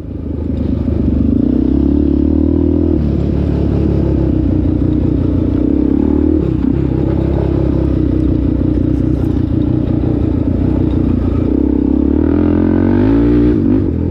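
ATV engine running continuously at a high, wavering pitch, climbing briefly about twelve to thirteen seconds in.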